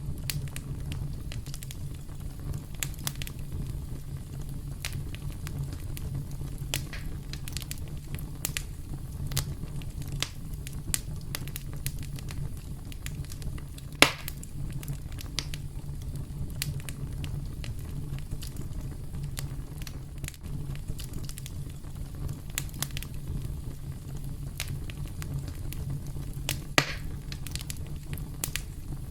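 Campfire burning: a steady low rumble with scattered sharp crackles and pops of burning wood, the loudest pop about halfway through and another near the end.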